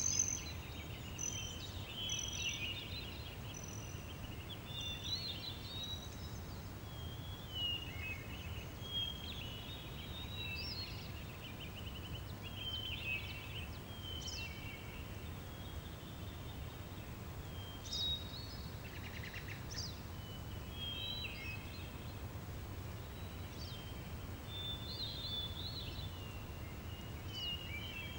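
Outdoor ambience of birds chirping and trilling in short, repeated calls over a steady low rumble.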